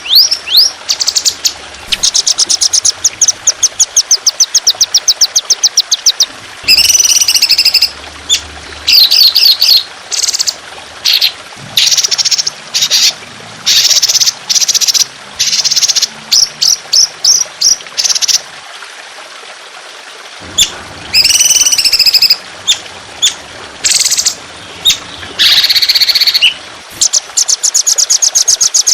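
Songbird singing long, rapid trills of sharp repeated notes in bursts, the harsh 'trotolan' style used as a training song for cage birds, over a steady trickle of water.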